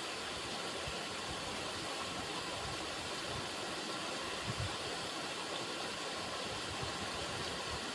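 River water running steadily, a constant rushing with occasional low gurgles and splashes, a stronger one about halfway through.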